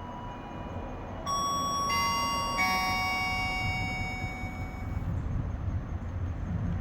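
A three-note descending chime, the notes struck about two-thirds of a second apart and each ringing on for a couple of seconds. Under it runs the low rumble of the cable car, growing louder near the end.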